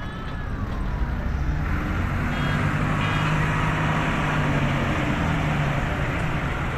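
Tractors driving past in a road convoy, engines running. One engine note grows louder from about two seconds in and fades again near the end.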